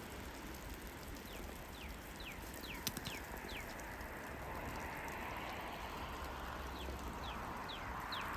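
A bird whistling two runs of short, evenly spaced falling notes, about five notes each, with a pause between the runs. Underneath, a steady outdoor hiss swells in the second half.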